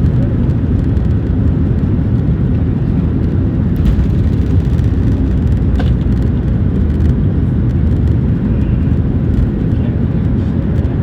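Steady, loud rumble of a Boeing 737-800's CFM56 engines and airflow, heard inside the cabin during takeoff. A couple of short clicks sound about four and six seconds in.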